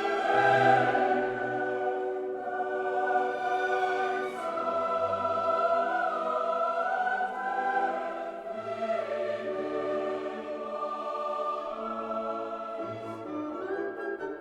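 Choral music: a choir singing slow, sustained chords that change every few seconds.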